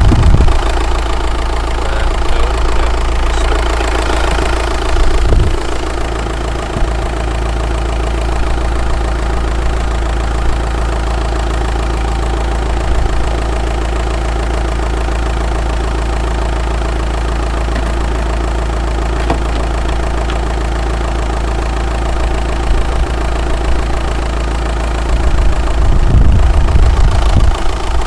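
2007 VW Golf GT TDI's 2.0-litre BKD four-cylinder diesel idling steadily with a diesel clatter, which the owner puts down to a clattery dual-mass flywheel. A few low thumps come near the start, about five seconds in and near the end.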